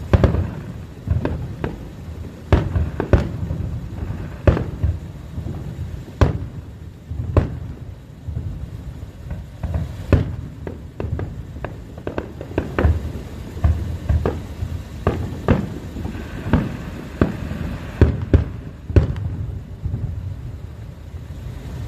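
Large aerial fireworks shells bursting one after another: a steady run of deep booms about once or twice a second, some in quick pairs near the end, with a low rumble between them.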